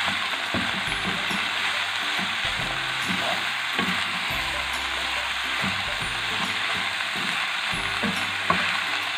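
Chopped vegetables and chicken sizzling in a hot frying pan while being stirred and tossed with a wooden spatula. Quiet background music with slowly changing chords runs underneath.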